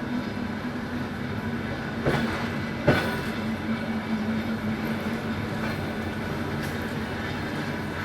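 Suburban train running along the track: a steady rumble with a constant hum and two sharp knocks about two and three seconds in.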